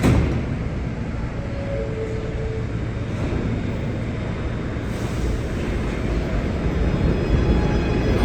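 New York City Subway R211A train at a station platform: a sharp thud at the start, a two-note falling door chime about two seconds in, then the train starting to pull out, its rumble growing louder from about five seconds in, with a faint motor whine near the end.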